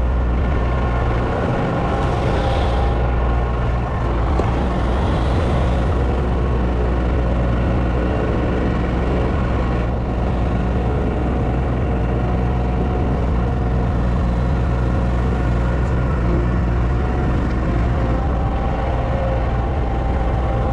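A large engine running steadily at an even pace.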